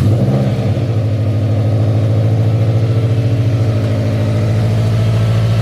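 Scion FR-S's FA20 flat-four idling steadily just after starting, an even pulsing engine note. No belt squeal is heard: the new accessory belt and pulley have cured it.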